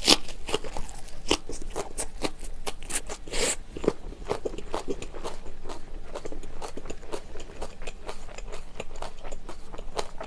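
Close-miked crunchy chewing of a wrap of sauced shredded pork with raw cucumber, scallion, carrot and green chili pepper. A bite at the start, then steady crunching, loudest in the first few seconds.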